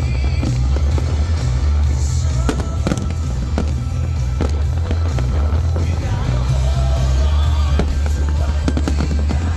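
Fireworks going off in rapid succession: a continuous low rumble of booms with many sharp cracks throughout, over music.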